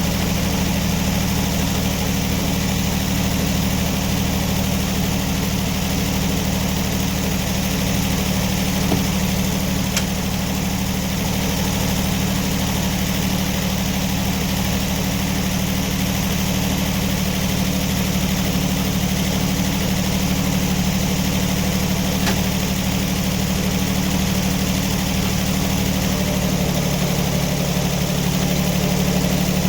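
An engine running steadily at idle, with a slight change in its pitch near the end.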